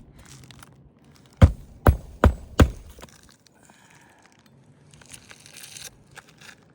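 Four sharp knocks in quick succession while brittle, weathered asphalt shingles are worked loose, followed near the end by dry scraping and crinkling of the shingles as their granules rub off.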